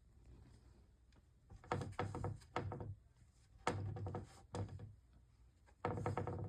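Door creaking in three short bouts as a kitten pushes it open.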